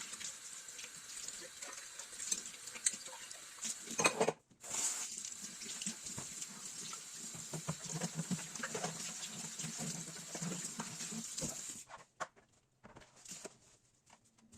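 Running water with scattered small clicks and knocks. It breaks off briefly about four seconds in and mostly stops about two seconds before the end.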